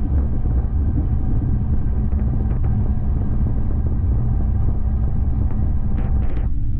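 Steady, loud low mechanical rumble, with a few faint steady tones above it.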